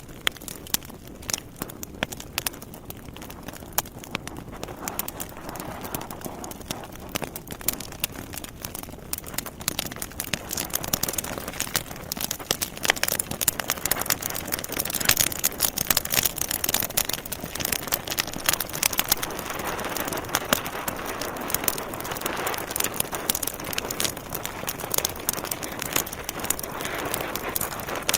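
Logs burning in a fireplace, crackling: many sharp pops and snaps over a soft hiss, growing busier and louder about a third of the way in.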